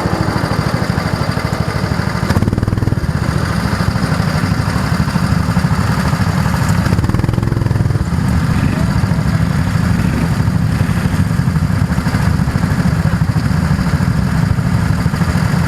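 Go-kart engine running steadily with a fast, even pulse and no big revs.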